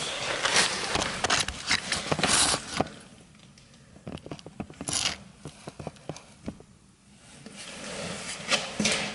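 Scraping, rubbing and knocking in irregular bursts, with a quieter stretch in the middle, as a 2006 Suzuki RM85 two-stroke dirt bike is kicked over; the engine does not catch.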